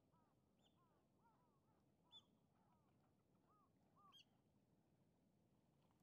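Faint bird calls: many short arched notes overlapping for about four seconds. Sharper, higher calls stand out about two seconds in and again near four seconds.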